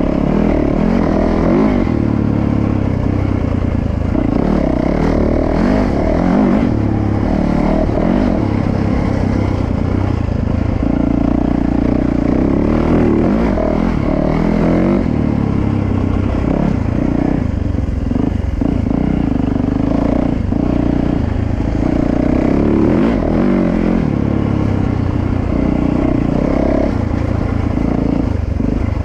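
Dirt bike engine running hard under load, its pitch rising and falling again and again as the throttle opens and closes.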